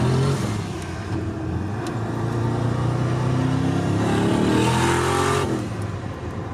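A car engine revving: its pitch climbs steadily for about four seconds, then drops away suddenly about five and a half seconds in, after a short rise right at the start.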